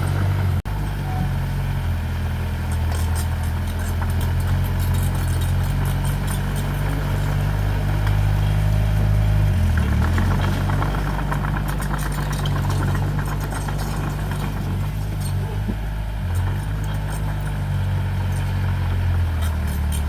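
Heavy-equipment diesel engine running steadily, its pitch shifting a little about halfway through, with light metallic rattling and clanking over it.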